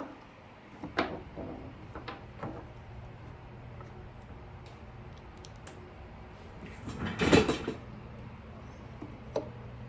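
Parts and tools handled at a workbench: a few light clicks and knocks, then a short clatter about seven seconds in, over a steady low hum.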